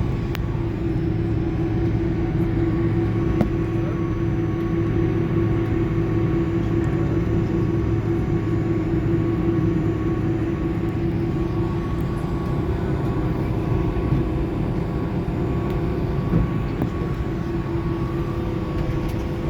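Steady low rumble and hum of an Airbus A310 on the ground after landing, heard from inside its cabin, with a steady whine over it and a few faint clicks.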